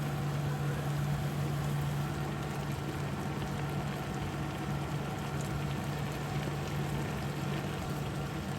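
Steady low mechanical hum with a soft hiss behind it, unchanging throughout.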